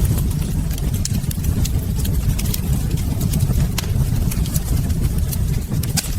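Fireplace fire burning: a steady low rumble with frequent sharp, irregular crackles and pops of burning wood.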